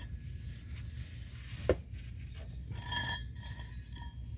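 Exhaust pipe parts being handled: a single knock about two seconds in and a faint metallic clink with a short ring near the end. Under it runs a steady high insect chirring.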